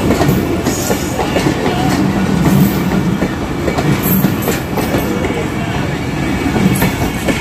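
Railway coaches rolling through a station, their wheels clicking over the rail joints, with brief faint wheel squeals.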